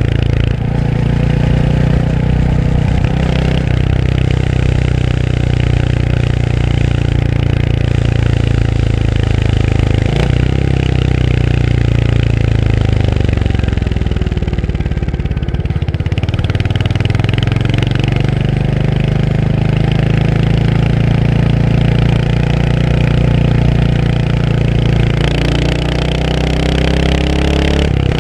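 Royal Enfield Hunter 350's single-cylinder engine running under way. The engine note drops as the bike slows about halfway through, then climbs again as it speeds back up.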